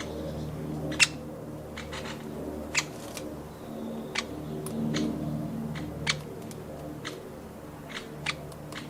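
Woodpecker pecking at nuts at a garden feeder: sharp, irregular taps, about eight of them, over a steady low hum.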